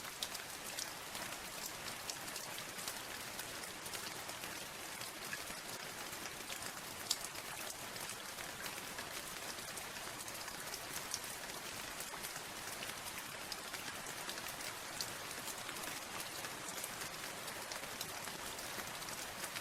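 Steady rain falling on a surface, with many separate drops ticking sharply over the even patter.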